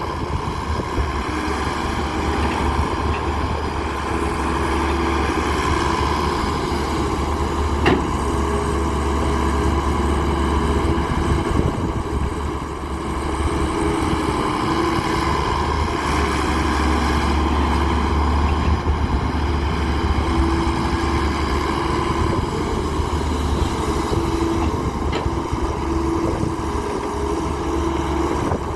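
Diesel engine of a Daewoo 170W3 wheeled excavator running steadily under hydraulic load while loading mud, swelling and easing as it works, with one sharp knock about eight seconds in.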